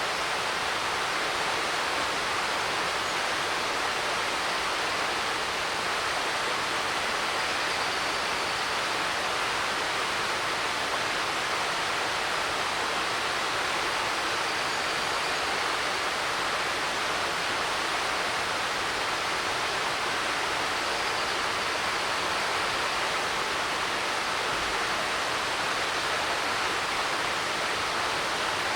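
Mountain creek running, a steady rushing hiss of water over rocks, like static on an old TV.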